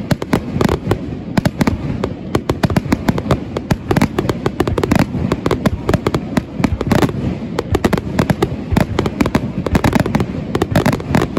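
Fireworks display in a rapid barrage: aerial shells bursting one after another, several bangs a second without a break, echoing off the surrounding mountains.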